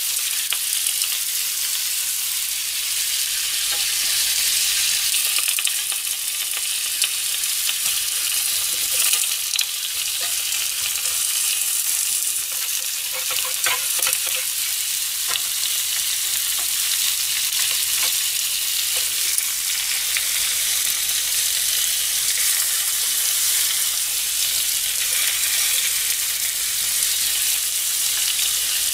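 Hamburg steak patties and carrot slices sizzling steadily in a sukiyaki pan, with a few light clicks of the metal spatula and chopsticks against the pan as the patties are turned.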